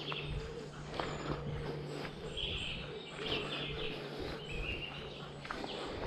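Small birds chirping: a few short, high chirps from about two to five seconds in, over a few scattered footsteps on a path.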